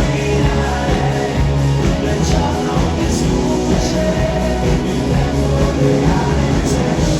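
Massed Rock'n'roll band playing a rock song live: loud, steady full-band music with drums, bass and guitars, and singing.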